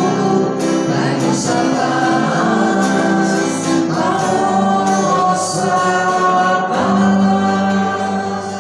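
A group of voices singing a Christian hymn with instrumental accompaniment, holding long sustained notes.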